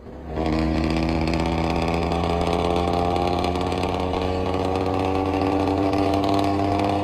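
Engine idling steadily with an even, unchanging pitch, cutting in abruptly just after the start.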